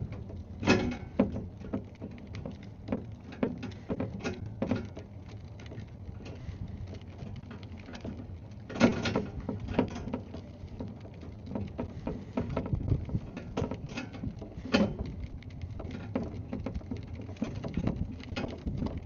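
Irregular knocks, taps and scrapes of hands working with tools and materials, a few louder knocks among them, over a steady low hum.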